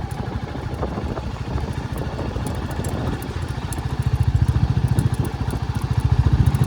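Royal Enfield Classic 350's single-cylinder engine running on the move, a fast, even thump of exhaust pulses that grows louder about four seconds in.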